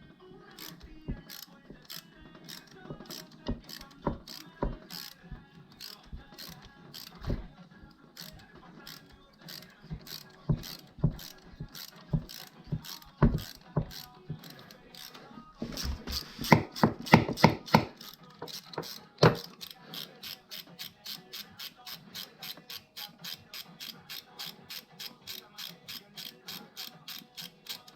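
Hand ratchet wrench clicking as a bolt is turned, the pawl ticking in short regular runs. There is a louder burst of clicks a little past the middle, then a quicker, very even run of clicks, about three a second, near the end.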